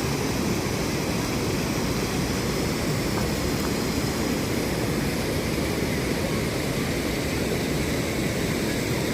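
Waterfall: water rushing over the Sauble Falls cascade in a steady, deep, unbroken rush.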